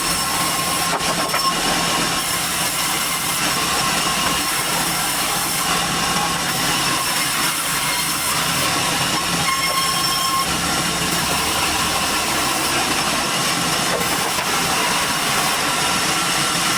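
Sawmill machinery running steadily while durian wood is processed: a loud, even noise with a faint high whine.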